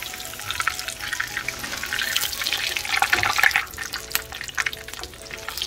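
Samosas shallow-frying in hot oil, a steady sizzle full of small crackles that grows busier about two to three seconds in. The samosas are golden and nearly done. Soft background music runs underneath.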